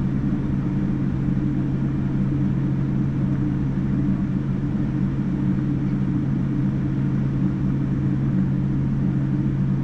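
Steady drone of a Boeing 787-9's engines and airflow heard inside the passenger cabin: a constant low hum that does not change in pitch or loudness.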